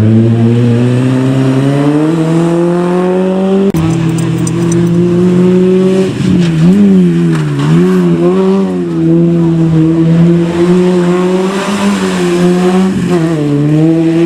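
Rally car engine revving hard, its pitch climbing over the first few seconds with a sharp break about four seconds in. It then rises and falls repeatedly as the throttle is worked, with tyres squealing.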